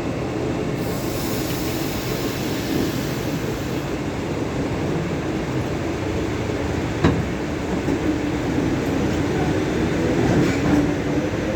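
ED4M electric multiple unit pulling away from a station: a steady rumble of the train, a high hiss for the first few seconds, and a single sharp clack about seven seconds in. The low hum grows a little louder near the end as it gathers speed.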